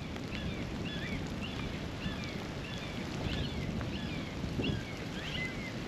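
Wind buffeting the microphone in the rain, a steady low rumble, with a bird calling over it in short falling chirps, about two or three a second.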